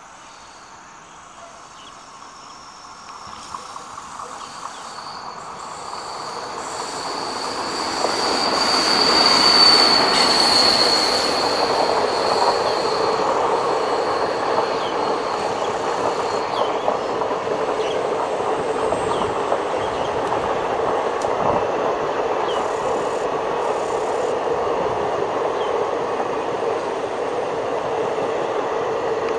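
Passenger express train approaching and passing on a curve. The rumble grows and a high, thin wheel squeal rises with it, loudest about ten seconds in. The squeal fades out past the middle, leaving the coaches rolling by in a steady rumble with occasional clicks from the wheels.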